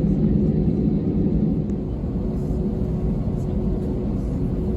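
Airbus A321-200 cabin noise heard from inside the cabin: a steady rumble of engines and airflow with a constant hum. A lower drone eases off about two seconds in.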